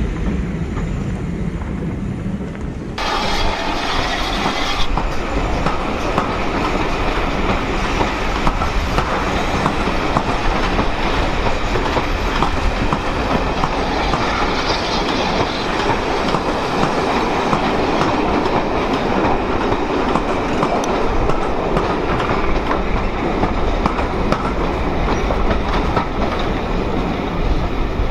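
Passenger coaches rolling past at low speed, their wheels rumbling and clicking over the rail joints in a steady clatter that grows brighter and louder about three seconds in.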